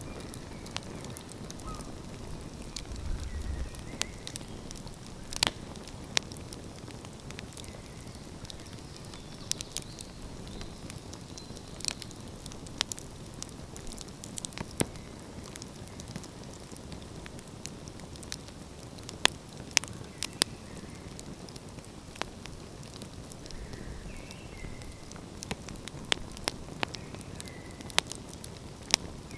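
Wood fire crackling, with sharp irregular pops and snaps over a steady low hiss.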